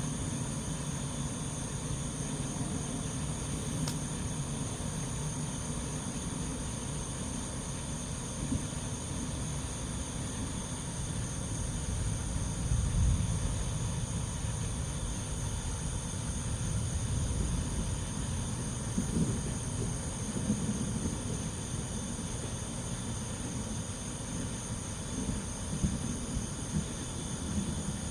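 Distant thunder rumbling low and swelling twice, about twelve and seventeen seconds in, under a steady high trilling chorus of night insects.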